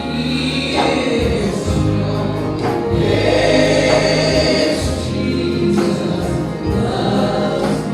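A group of voices singing a gospel hymn together, with long held notes.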